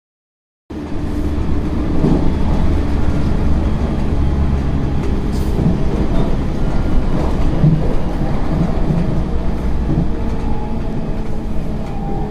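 JR Central 313 series electric train running, heard from on board: a steady rumble of wheels on the rails that cuts in abruptly about a second in after silence.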